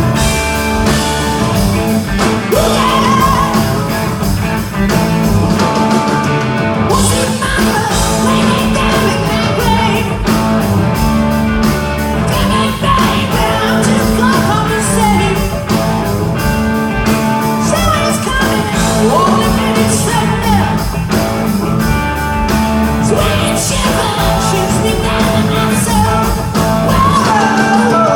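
Rock band playing live, with a male lead singer singing over electric guitar, bass and drums.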